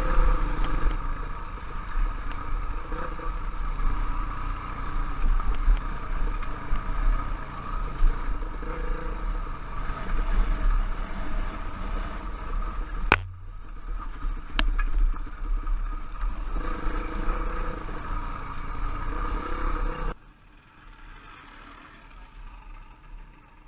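Trail or enduro motorcycle engine running while riding, its note rising and falling with the throttle, over heavy low wind rumble on the microphone. About 20 seconds in the sound drops suddenly to a much quieter level.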